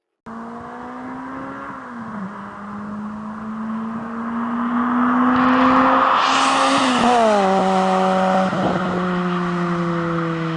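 Car engine accelerating through the gears, its pitch creeping up and then dropping at shifts about 2 seconds and 7 seconds in. A loud rush of noise swells over it in the middle.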